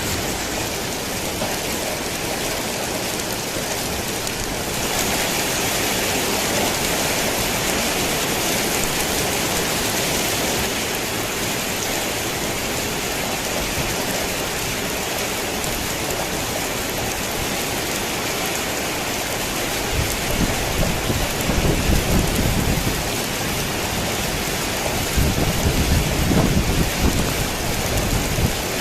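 Rain falling steadily on a tin roof, growing louder about five seconds in and easing again after ten. Low thunder rumbles twice near the end.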